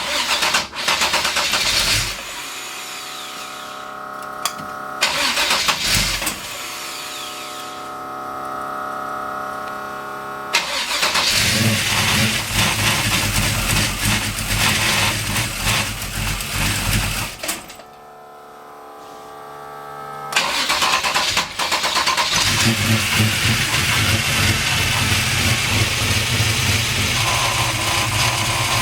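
A 383 stroker V8 being started: cranking and trying to fire for about ten seconds, then catching and running, dying out briefly, and firing again to run on. The engine had been failing to keep running because its fuel pump was switched off.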